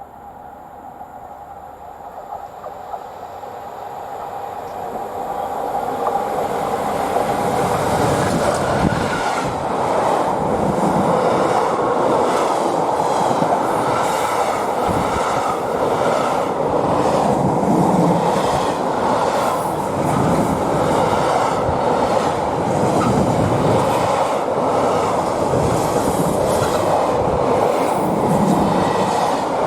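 A train approaching, growing steadily louder over about eight seconds, then running past close by with a continuous rumble and repeated clicks of its wheels over the rail joints.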